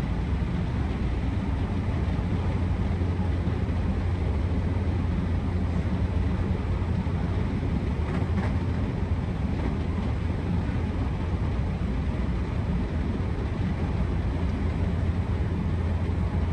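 Electric train running at steady speed, heard from inside the passenger car: an even low hum of wheels on rail and running gear, with a couple of faint ticks about halfway through.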